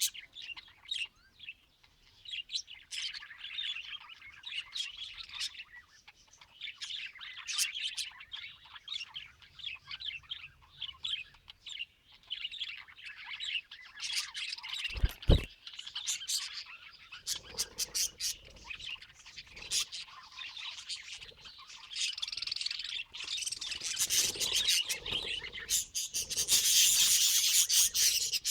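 Budgerigars chirping and chattering in quick short notes, with a single thump about halfway through and a louder scratchy rustle near the end.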